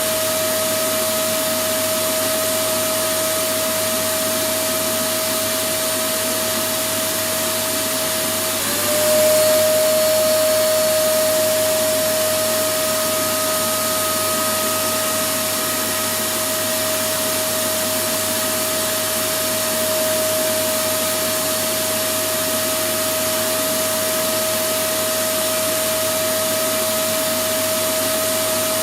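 Electric vacuum cleaner running steadily, a rushing noise with a constant whine. About nine seconds in the whine dips briefly in pitch and the sound gets a little louder, then it settles back to the same steady run.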